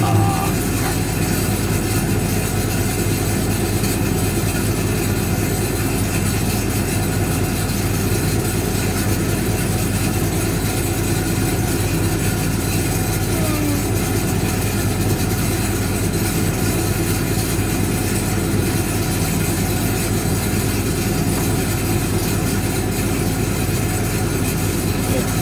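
1965 English Electric Liberator washing machine running, its motor giving a steady mechanical hum.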